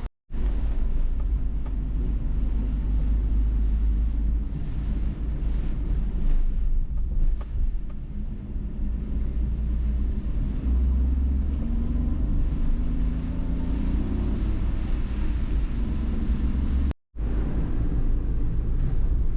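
Car driving, heard from inside the cabin: a steady low rumble of road and engine noise. It is broken by two brief dropouts to silence, one at the very start and one about three-quarters of the way through.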